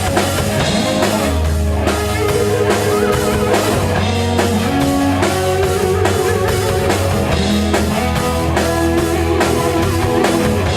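Rock band playing an instrumental passage live, with a steady drum-kit beat and guitars.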